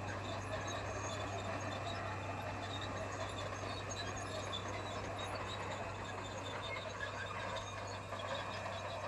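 Komatsu bulldozer running steadily: a constant low diesel engine hum under an even mechanical rumble.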